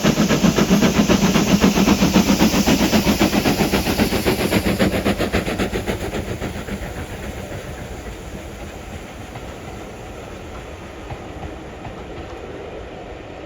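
NER Q6 0-8-0 steam locomotive and its train climbing the gradient past the listener, with a loud, fast, even rhythm of beats. The sound fades away from about five seconds in as the train draws off.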